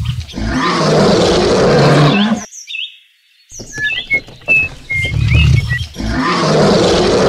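Lion roar sound effect, played twice: the first ends about two and a half seconds in, and after a short gap with bird chirps the same roar comes again about five seconds in.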